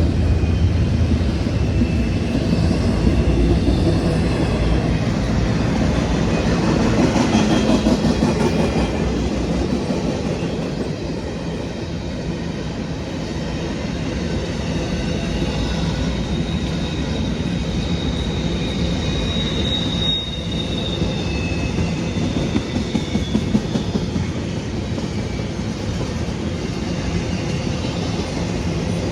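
Freight train of empty intermodal well cars rolling past, a steady rumble of wheels on rail. About twenty seconds in, a high steady wheel squeal rises and fades.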